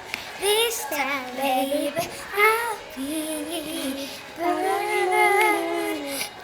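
A child singing solo in a series of short sliding phrases, ending in a longer held phrase near the end.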